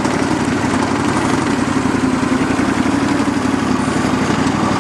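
1991 Ingersoll 3014 garden tractor's Briggs & Stratton 14 hp Vanguard twin-cylinder engine running steadily at an even speed.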